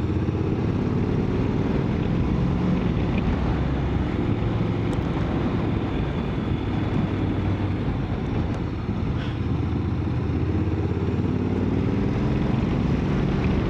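Motorcycle engine running steadily under way, its pitch rising and falling gently with the throttle, over a steady rush of wind and road noise.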